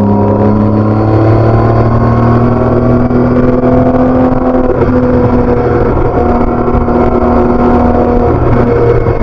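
BMW K1600B inline-six motorcycle engine through its stock exhaust, pulling under way with its note slowly rising in pitch, broken briefly a few times around the middle and near the end.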